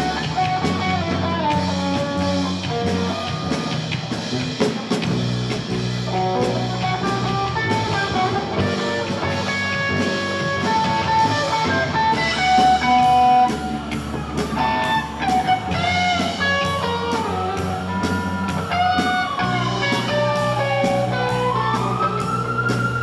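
A rock band playing an instrumental break with no vocals: a lead guitar solo over bass and drums. In the second half the guitar's long bent notes swoop up and down.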